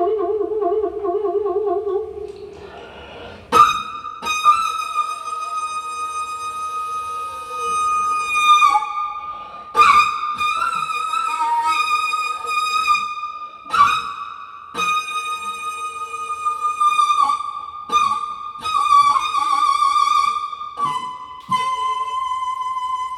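Daegeum, the large Korean bamboo transverse flute, playing a slow solo improvisation. A low wavering note gives way about three seconds in to long high notes with vibrato and pitch bends, each entered with a sharp breathy attack; a steadier, slightly lower note is held near the end.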